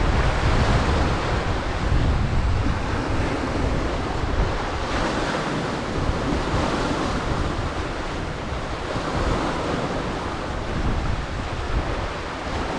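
Sea waves breaking and surging on the shore, with wind buffeting the microphone as a low rumble that is heaviest in the first few seconds.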